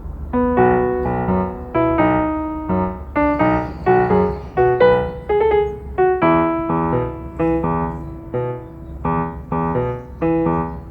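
Background piano music: a gentle melody of separate notes, each struck and decaying, at a steady pace.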